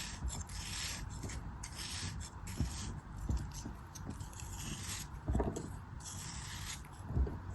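A blade scraping and cutting through a soft, crumbly craft material in repeated short strokes, roughly two a second. There is a soft thud about five seconds in and another near the end.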